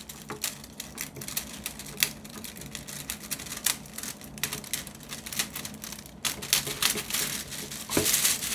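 Kitchen scissors cutting through crinkly plastic film: irregular clicking snips of the blades with rustling and crackling of the plastic, busier in the last couple of seconds. The blades are not cutting cleanly and chew through the film.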